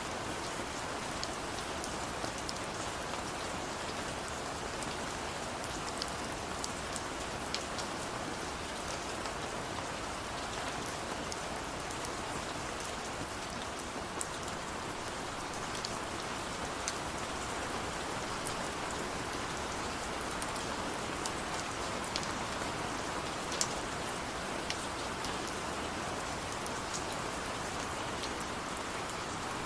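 Steady rain falling, a continuous patter with scattered individual drops ticking sharply on a surface.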